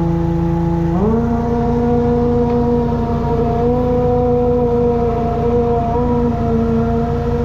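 High-pressure drain jetter's engine running, its pitch stepping up about a second in and then holding steady.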